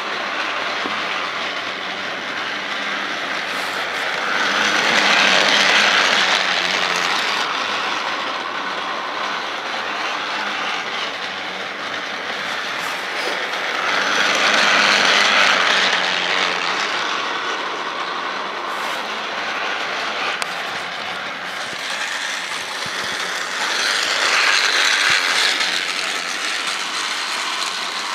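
Motorized Paw Patrol toy train running steadily around a plastic track with a whirring, clattering mechanism, growing louder three times, about every ten seconds, as it comes round close by.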